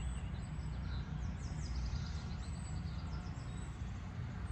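Songbirds chirping and trilling in short falling phrases over a steady low rumble.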